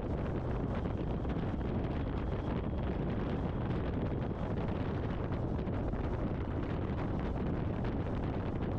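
Steady wind rush on a motorcycle helmet's com-unit microphone while riding, with the bike's road noise underneath.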